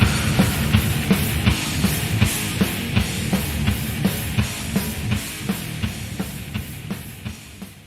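Thrash metal band (distorted guitar, bass and drum kit) playing an instrumental passage, with drum hits keeping a steady beat of a little under three a second. The music fades out gradually toward silence.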